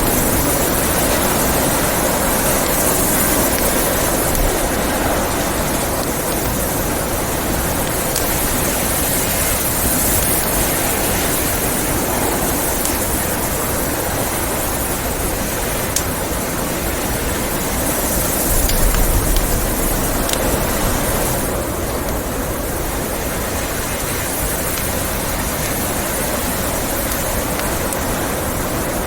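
Steady blizzard wind noise with a fireplace crackling under it: a few sharp pops stand out, and a stronger gust of wind swells briefly about two-thirds of the way through.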